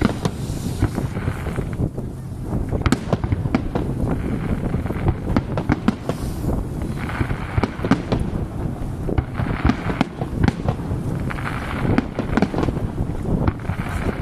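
Fireworks display: a steady run of bangs from shells bursting, with bouts of crackling, over a continuous low rumble.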